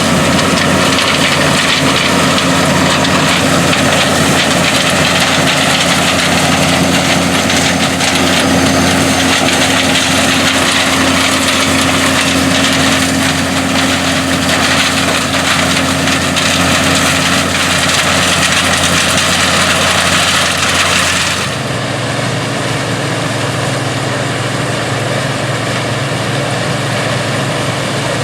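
Classic combine harvester running steadily while harvesting corn: a steady engine note under the clatter and rush of the threshing machinery. About three-quarters of the way through, the sound changes abruptly to a different, lower-pitched engine note with less hiss.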